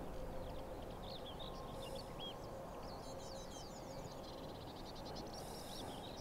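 Small birds singing, a run of quick high chirps and a rapid trill, over a steady low outdoor hiss.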